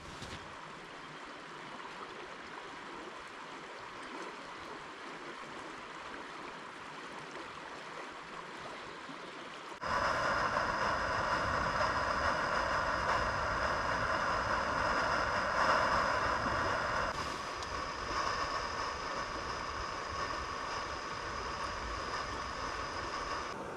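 Steady rushing of a stream, then about ten seconds in a camping gas stove burner starts suddenly and runs with a loud, steady hiss and whistling tones.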